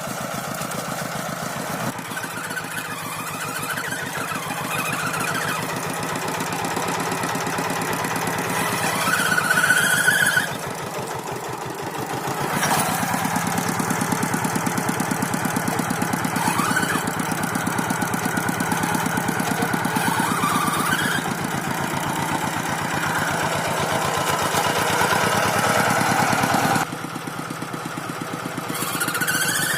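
Tractor engine running steadily, a rapid even chug, with sudden changes in loudness about a third of the way in and again near the end.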